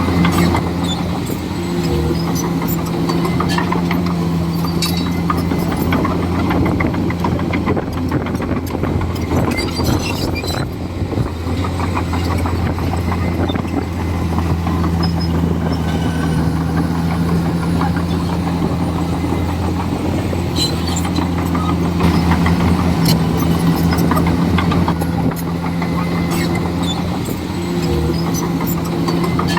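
Komatsu D41E bulldozer's diesel engine running steadily under load, its note easing briefly a few times, with scattered clanks and knocks throughout.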